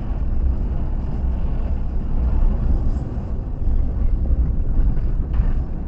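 A car driving, heard from inside the cabin: a steady low road and engine rumble.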